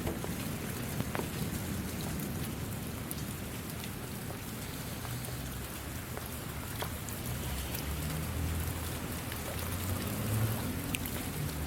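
Steady rain falling, with scattered single drops ticking through the hiss. A low rumble swells about eight seconds in.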